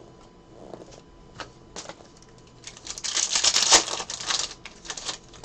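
Trading cards and their packaging being handled: a few single clicks, then a dense run of rapid clicking and rustling about three seconds in that lasts about a second and a half.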